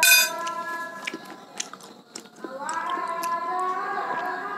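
Close-up chewing and mouth clicks, opening with a bright clink of a metal spoon on a plate. From about halfway, a child's voice chants pujian (devotional praises) faintly over a mosque loudspeaker, ahead of the maghrib call to prayer.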